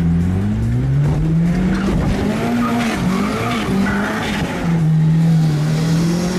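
Car engine revving hard in the cabin, its pitch climbing over the first couple of seconds, wavering through the middle, then holding high near the end, with some tyre squeal in the middle.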